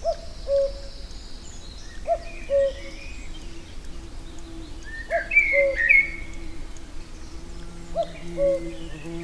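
Common cuckoo calling 'cuck-oo' four times, each call a higher note dropping to a lower one, a few seconds apart. Songbirds twitter faintly in the background.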